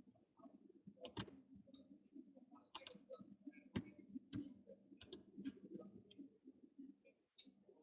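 Near silence with faint, irregular clicks and small handling knocks.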